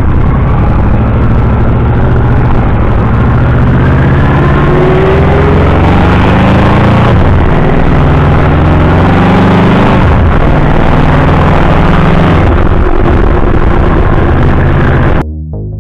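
Car engine accelerating away from a stop, heard from inside the cabin with road noise; its pitch climbs and drops back three times as it shifts up through the gears. Near the end it cuts suddenly to electronic music.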